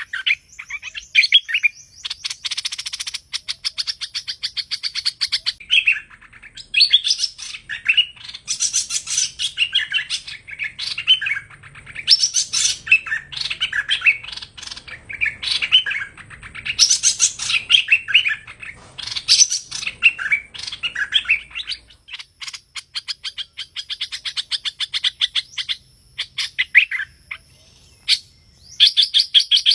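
Song of the hoành hoạch, a Vietnamese songbird, in long runs of rapid chirps and trills with brief breaks between phrases. This kind of recording is played as a lure to draw wild birds into a trap.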